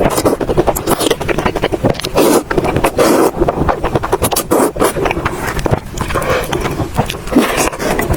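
Close-miked eating sounds: chewing and crunching food, with a dense run of sharp, wet mouth clicks.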